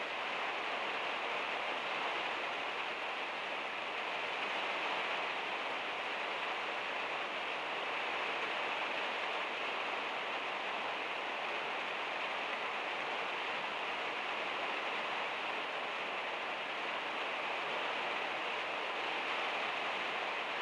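Heavy rain falling on a van's metal roof, a steady even hiss with no single drops standing out.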